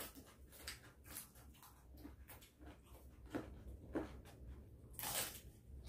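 Faint chewing of raw vegetables, with soft mouth clicks here and there, and a brief louder rustling noise about five seconds in.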